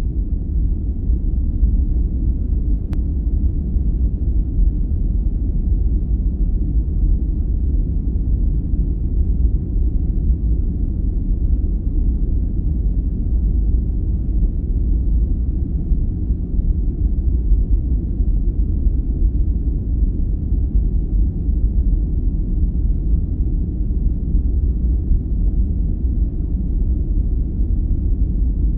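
Sleep-aid noise track: a steady, deep noise with almost no treble, holding constant throughout.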